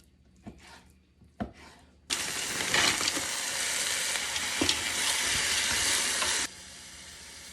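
A few faint clicks, then about two seconds in a loud sizzle of chicken and onions frying in a hot pan as they are stirred. The sizzle cuts off sharply near the end, leaving a much fainter hiss.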